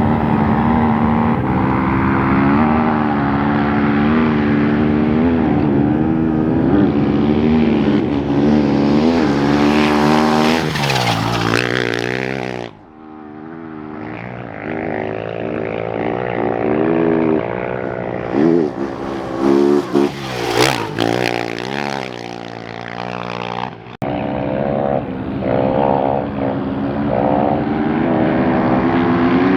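Off-road racing motorcycle engines revving hard and passing by, the engine pitch climbing and then dropping as each bike goes past. The sound breaks off abruptly twice, about 13 s and 24 s in.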